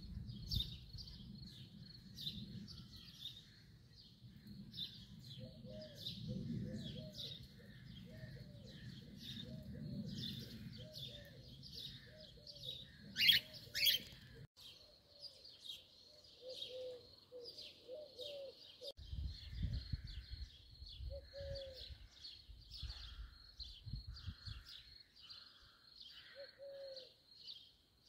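Birds calling in the treetops: a steady run of short, high chirps, about two a second. For a while in the middle it is joined by a series of lower repeated notes. About halfway there are two loud, sharp calls close together, with a low rumble underneath for long stretches.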